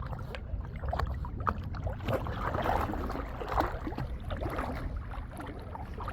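Small dog paddling in water in a floater, making light, irregular splashing and lapping over a steady low rumble.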